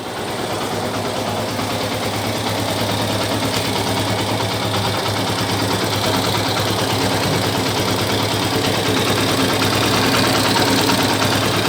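Motorcycle engine idling steadily, heard up close, with no timing-chain rattle now that a longer cam-chain tensioner has been fitted. The owner calls the running smooth.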